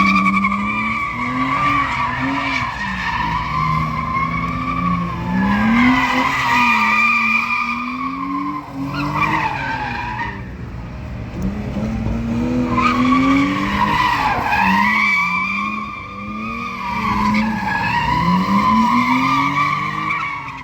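A car's tyres squealing as it slides around, with the engine revving up and down under the squeal. The squeal eases off briefly about halfway through, then starts again.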